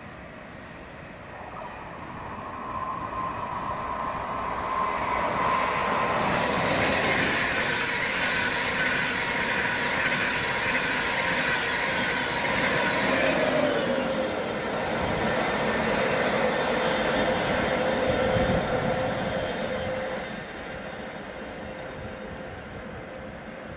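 A passenger train passing. The sound builds over a few seconds, stays loud for about fifteen seconds with a steady whine over the rumble that drops in pitch about halfway through, then fades near the end.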